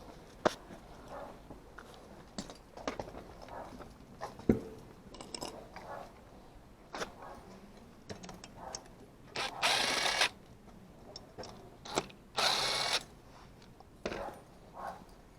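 Hand tools and metal parts being handled, making scattered clicks and knocks, with two short hissing bursts about ten and twelve and a half seconds in.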